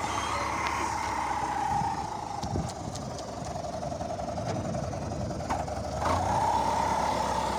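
Fiat 640 tractor's diesel engine running while ploughing, its exhaust note steady. It sags quieter and a little lower for a few seconds in the middle, then picks back up about six seconds in.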